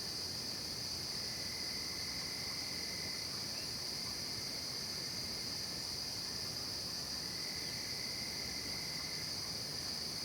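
Night chorus of crickets: a steady, unbroken high-pitched trilling, with a fainter, lower trill that comes in twice and fades out again.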